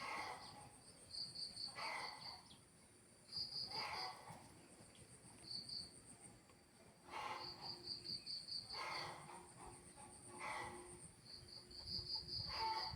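Crickets chirping: a steady high trill with rapid pulsed chirp runs that come and go in groups of about a second. A louder, lower, rough call from another animal repeats about every two seconds over them.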